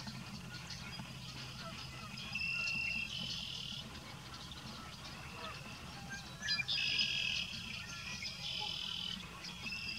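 Wetland sounds: repeated high, steady trilling calls, each lasting about half a second to a second, over a low steady hum. A few sharp clicks come about six and a half seconds in.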